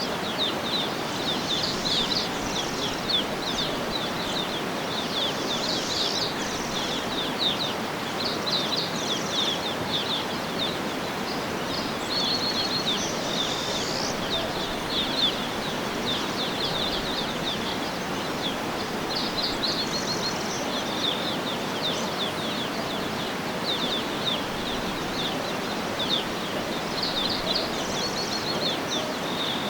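Outdoor nature ambience: a steady wash of background noise with many small birds chirping and trilling throughout.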